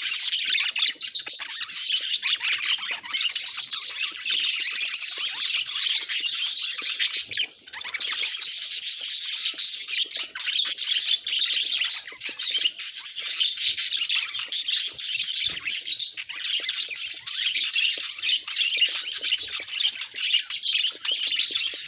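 Budgerigars chattering and warbling, a dense run of chirps from several birds, with a brief pause about a third of the way through.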